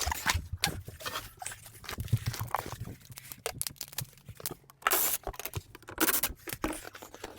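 Hands working among the plumbing under a kitchen sink: a run of knocks, clicks and taps, with two louder scraping, rustling noises about five and six seconds in.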